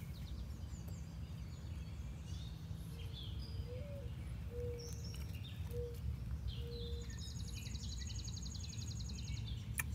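Birds chirping and calling outdoors over a steady low rumble of background noise, with a high trill in the second half and a single sharp click near the end.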